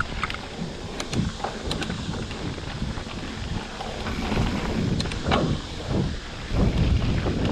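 Mountain bike riding over a wet, muddy trail: wind buffeting the microphone over the rumble of the tyres, with scattered sharp clicks and knocks from the bike.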